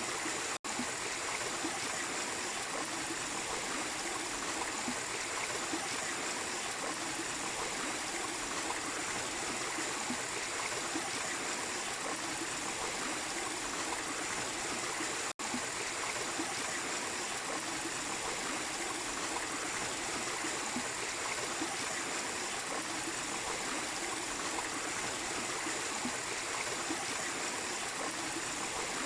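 A small waterfall splashing and flowing steadily, with the sound cutting out for an instant twice.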